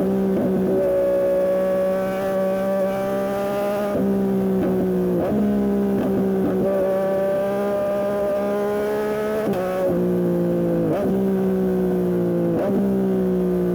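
2021 Yamaha MT-09 SP's three-cylinder engine through an aftermarket Dominator exhaust, ridden hard at high revs. The pitch dips sharply for a moment about seven times, like quick gear changes.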